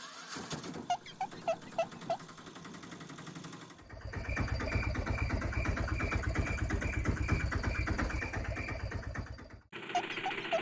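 Engine-like sound of a toy vehicle, chugging rapidly in sections cut one after another. A lighter rattle with short repeated chirps gives way about four seconds in to a louder, heavier chugging, which stops abruptly near the end before the chirping rattle returns.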